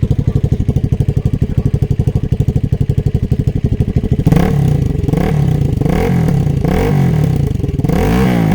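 Motoland Legend 250's single-cylinder 172FMM engine with a four-valve head, running through its stock muffler: it holds a steady, evenly pulsing low speed of about 1500 rpm, then from about four seconds in is blipped up and back down several times in quick succession.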